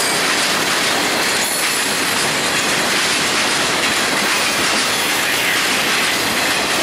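Freight train boxcars rolling past on the track: a loud, steady rush of steel wheels on rail.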